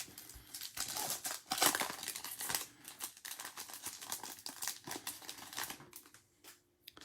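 Trading cards being handled and shuffled: irregular papery flicks, slides and rustles of card stock, thinning out near the end.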